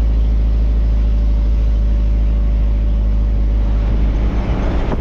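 Truck engine running with road rumble while driving: a loud, steady low drone that turns uneven about four seconds in.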